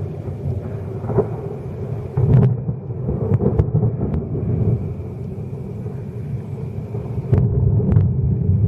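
Thunder rumbling, swelling louder about two seconds in, again around three and a half seconds, and once more near the end.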